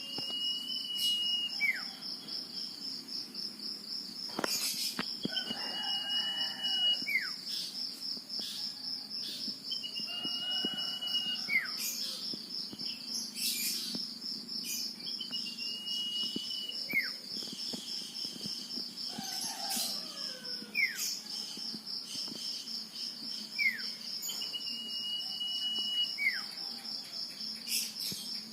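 Male common iora whistling, a long level note that ends in a quick downward slur, repeated about every five seconds. A steady high cricket trill runs underneath.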